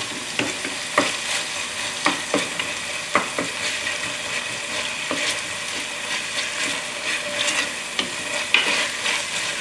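Chicken, onion, ginger and tomato sizzling in hot oil in a Dutch oven while a wooden spoon stirs and scrapes through them, with scattered light knocks of the spoon against the pot.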